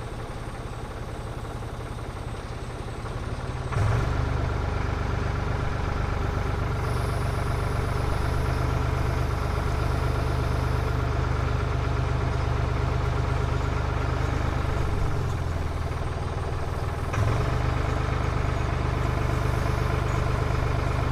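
Forklift engine running at idle, then speeding up about four seconds in. It eases off briefly around fifteen seconds and picks up again about seventeen seconds in, as the forklift works to lift and place a heavy machine.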